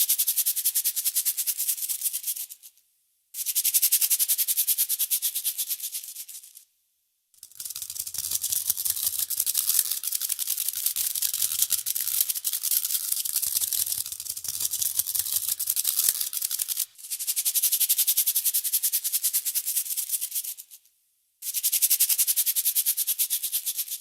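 Rapid dry rattling, like something shaken, in bursts of about three to four seconds with short silences between them. One longer burst in the middle runs about nine seconds.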